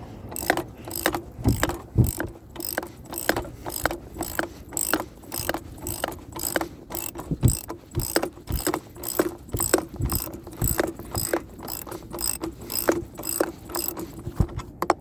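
Hand ratchet clicking steadily as it turns a coil spring compressor's threaded screw, about three to four clicks a second, slowly letting the compressed strut spring extend.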